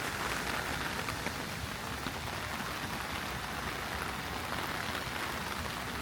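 Heavy rain falling, a steady even hiss dotted with many small drop hits.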